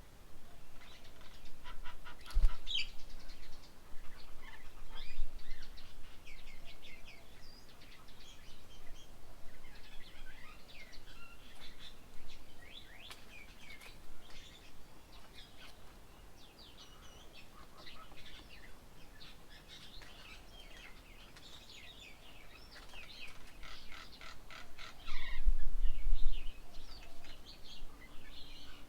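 Several small birds chirping and calling over and over in short, quick notes and trills. A sharp knock about two seconds in and a brief low rumble near the end are the loudest moments.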